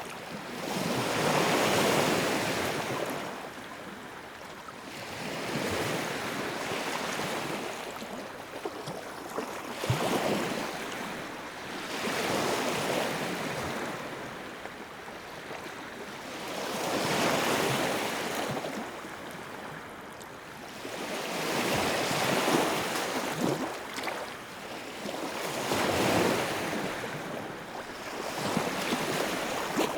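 Fire in a fireplace burning with a steady rushing hiss that swells and eases every few seconds, with a few sharp crackling pops.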